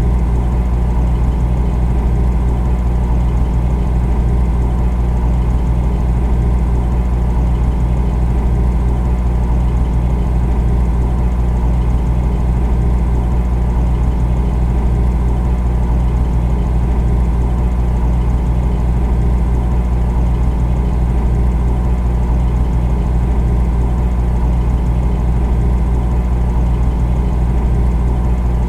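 Refrigerator running: a steady low motor hum with a fainter even whir above it, unchanging throughout.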